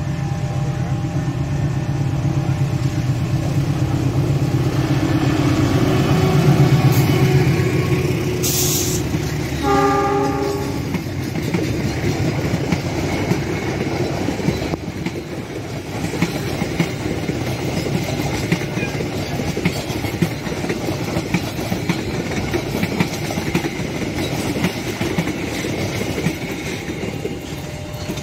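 Diesel-hauled passenger train passing close by. The locomotive's engine rumble builds to a peak, a short hiss is followed by a horn blast of about a second around ten seconds in, and then the long run of coaches goes by with a steady clickety-clack of wheels over the rail joints.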